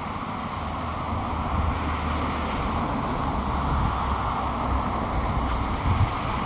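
Traffic passing on a rain-wet road: a steady hiss of tyres through surface water, with a low engine rumble that swells in the middle as a vehicle goes by.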